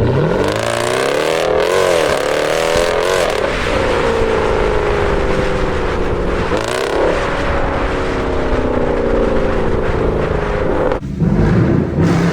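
SRT Jeep's V8 engine under hard acceleration. The revs climb fast from the start, with gear changes about three and a half and six and a half seconds in, then hold until the driver lifts off about eleven seconds in.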